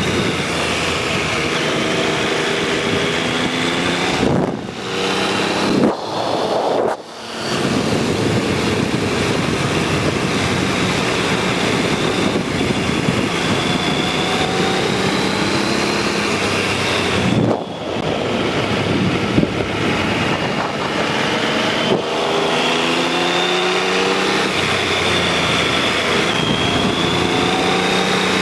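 An engine running with its pitch slowly rising and falling, over a steady rush of noise. The level drops briefly a few times, about four, six, seven and seventeen seconds in.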